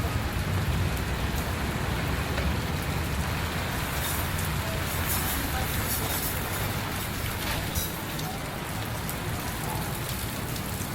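Heavy rain falling steadily, with scattered close drops ticking and a low rumble underneath.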